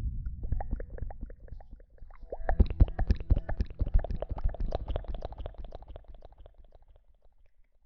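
Close-miked ASMR rustling: a dense run of quick crackles and taps over low thumps right at the microphone, building up and then dying away near the end.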